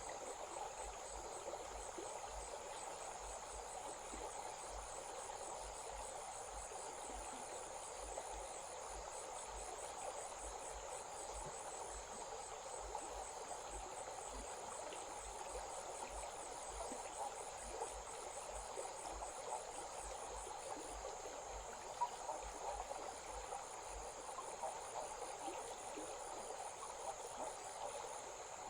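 Evening insects chirring in a steady, rapidly pulsing high trill over the even rush of a small stream. A single short tick sounds about three-quarters of the way through.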